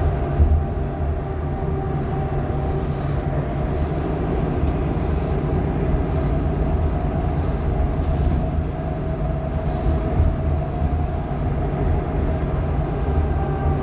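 A 2015 Nova LFSA hybrid articulated bus running, its Cummins ISL9 diesel and Allison H50 EP hybrid drive giving a steady low drone with steady whine-like tones above it.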